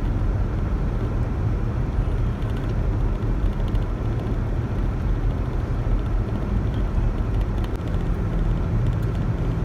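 Steady low rumble of a car being driven slowly on a snow-covered, slippery road, engine hum and tyre noise heard from inside the cabin.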